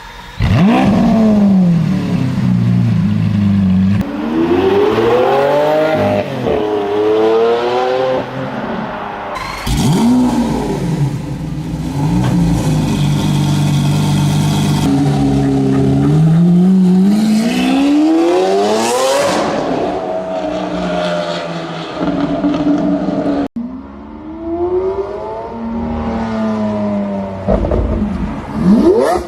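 Lamborghini Aventador V12 engines revving hard in a string of short clips, the note climbing and dropping again and again, with sudden cuts between clips.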